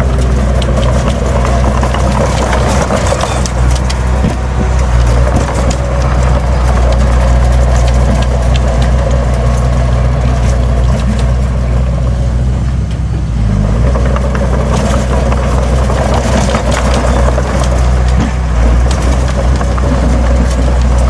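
Heavy earthmoving machine's diesel engine running steadily under load, with scattered rattles and clanks. The engine note dips briefly about two-thirds of the way through, then picks up again.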